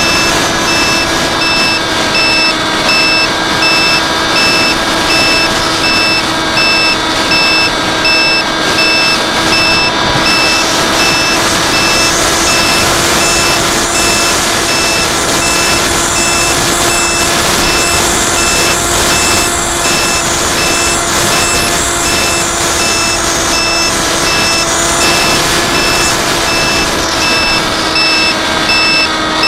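Small drone hovering, its propellers giving a steady high whine with many overtones, over wind noise. A fast, evenly repeating electronic beep runs alongside.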